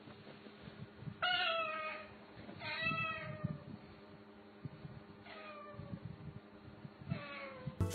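A cat meowing four times, each meow falling in pitch; the first two are louder, the last two fainter.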